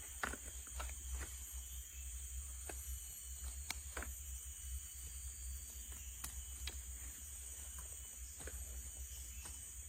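Outdoor forest ambience: a steady high-pitched insect-like chorus, with scattered sharp ticks at irregular intervals.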